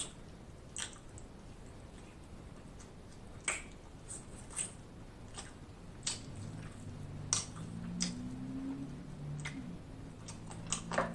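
Close-up eating sounds: wet mouth clicks, smacks and chewing as chicken wings are bitten and sucked off the bone and sauce is licked from fingers. From about six seconds in, a low wavering hum runs under the smacks.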